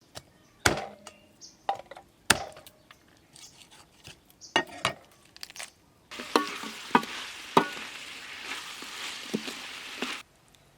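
Cooking utensils knocking and clinking against a pan, then about six seconds in, food sizzling hard in hot oil with a spatula clinking against the pan, cutting off suddenly near the end.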